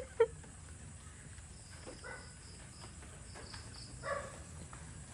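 Crickets chirping steadily in the background, with a couple of short pitched vocal sounds: one right at the start and one about four seconds in.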